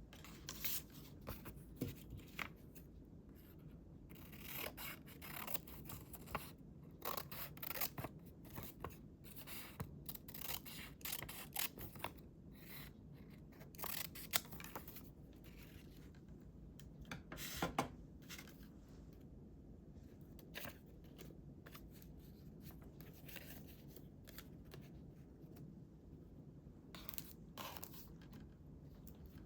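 Scissors cutting paper: runs of short, crisp snips with quiet pauses between them.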